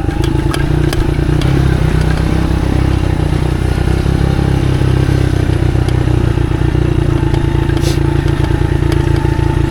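Motorcycle engine running steadily under way, with a few brief clicks and rattles in the first second and again about eight seconds in.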